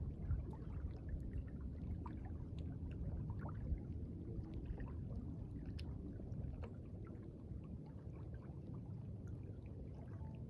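Lake water sloshing and lapping, with a low steady rumble and scattered light taps.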